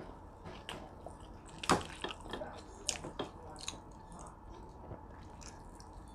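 A person chewing food, with wet mouth clicks and smacks. The sharpest click comes a little under two seconds in, followed by a few smaller ones.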